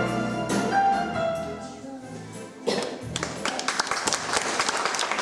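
The final notes of a piece of music fade out, and about two and a half seconds in an audience breaks into applause that keeps going.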